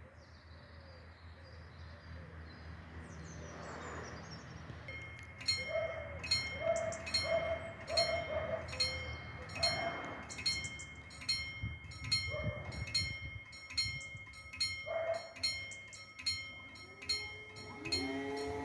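Level crossing warning bell starts about five seconds in and dings rapidly and evenly, nearly twice a second, over birdsong. Near the end a low steady tone rises in and holds.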